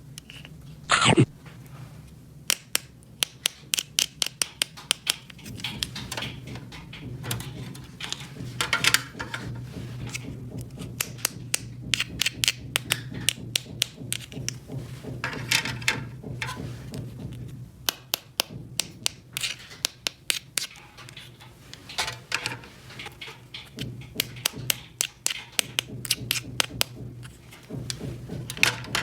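Small plastic toy kitchen pieces being handled: many quick clicks and taps, sometimes in fast runs, with brief rustling now and then.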